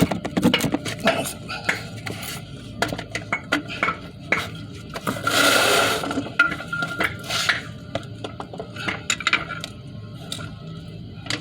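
A car wheel being handled and fitted back onto the hub: a run of short metallic clinks and knocks, with a longer scrape about five seconds in.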